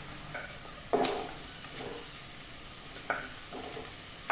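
Garlic, ginger, green chillies and curry leaves sizzling gently in hot oil in a nonstick kadai, with a few short scrapes of a spatula stirring them.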